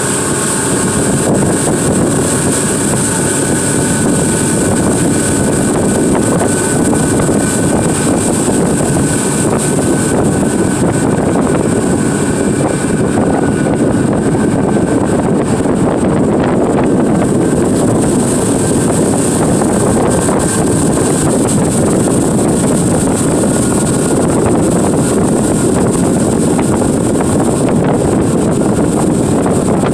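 Tour boat's motor running steadily while the boat is underway.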